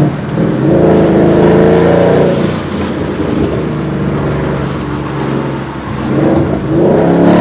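2011 Mustang GT's 5.0 L V8 through a Roush aftermarket exhaust, accelerating with a deep exhaust note. The note swells loud for about two seconds, eases off to a quieter steady run, then climbs again near the end.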